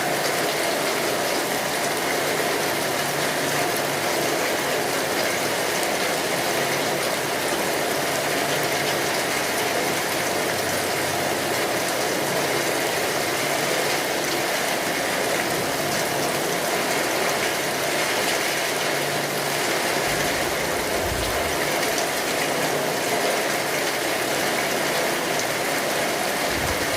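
Steady rain on a tin roof, a dense even patter of drops on the metal sheeting.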